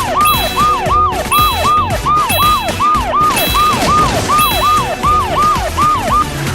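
Cartoon police siren wailing in quick rising-and-falling sweeps, nearly three a second, that stop shortly before the end, over background music.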